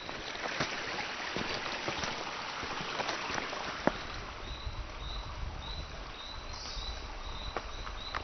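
Rainforest ambience: a steady rustling hiss with scattered sharp clicks and snaps. About halfway through, a bird starts repeating a short, high, even note about twice a second.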